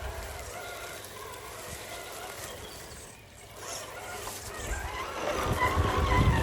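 Electric motor and geared drivetrain of a 1/10-scale RC rock crawler whining, the pitch wavering up and down with throttle, growing louder over the last second or so, with low wind rumble on the microphone near the end.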